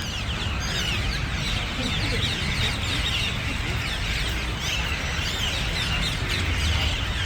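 A large flock of birds calling all at once: a dense, continuous chatter of overlapping short chirps over a low rumble.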